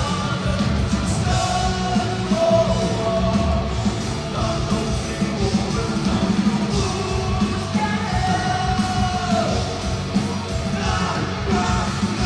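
Live rock band playing loud with distorted guitars and drums, and a voice singing and shouting over it, heard as a concert recording.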